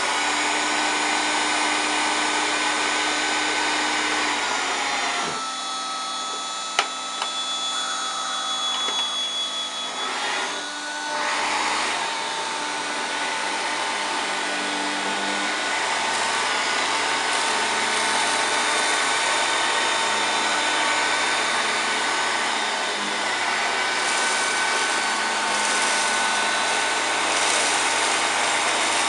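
A 1993 Hoover Turbopower 2 U2464 vacuum cleaner running steadily as it is passed over cornflakes on a mat. The motor's whine shifts pitch a few times, and there is one sharp click about seven seconds in.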